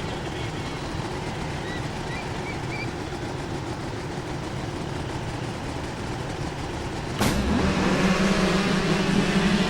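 Motorcycle engine noise: a steady, even engine sound, then about seven seconds in a sudden click and a louder engine running at a steady pitch.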